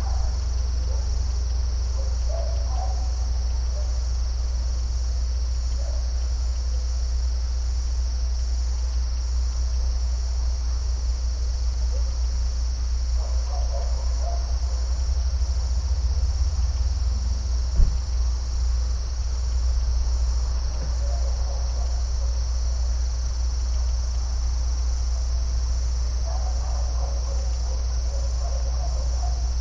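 A continuous insect chorus, steady high-pitched chirping of crickets, over a steady low rumble. A single sharp knock sounds about 18 seconds in.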